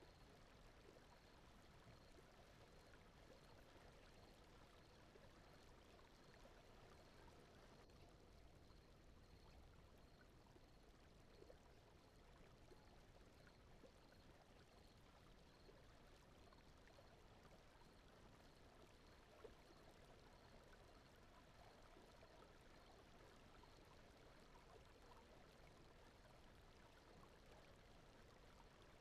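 Faint, steady ambience of softly flowing water like a gentle stream, with small trickling ticks, blended with smooth brown noise. A faint high pulse repeats about twice a second.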